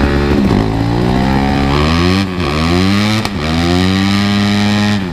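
Dirt bike engine revved hard and held high during a burnout, its rear tire spinning. The pitch climbs, dips briefly twice about two and three seconds in, then holds steady before cutting off sharply near the end.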